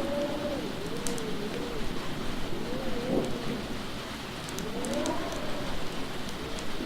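Howling wind whose pitch rises and falls in long swoops over steady rain, with scattered sharp crackles from a burning log fire.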